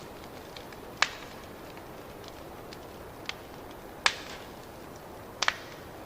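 Wood fire crackling and hissing steadily in a fireplace, with sharp pops about a second in, about four seconds in, and a quick double pop near the end.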